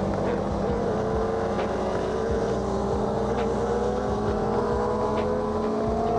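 Suzuki GSX-R600's inline-four engine with an M4 exhaust running at steady cruising revs, its pitch drifting slowly down and then back up, over a steady rush of noise.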